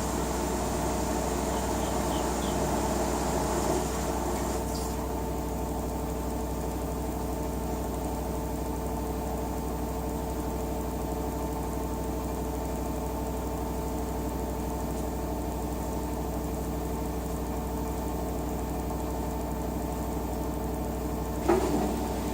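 LG WT-R852 direct-drive washing machine running, a steady motor hum with a held whine. A high hiss stops about four seconds in, and near the end a sharp click is followed by a change in the machine's sound.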